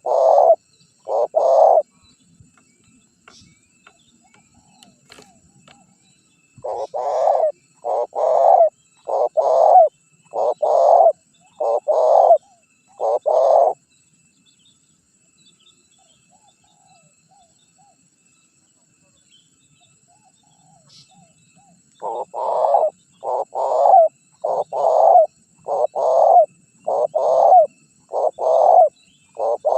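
Spotted dove cooing in bouts of short repeated notes, roughly one a second. There are three bouts with pauses of several seconds between them.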